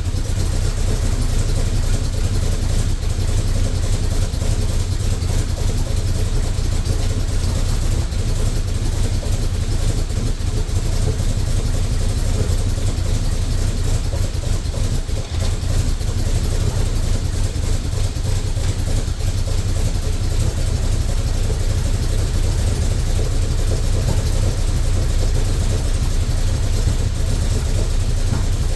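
Twin-turbo Ford 351 Windsor small-block V8 idling steadily at low RPM on its first start after a rebuild.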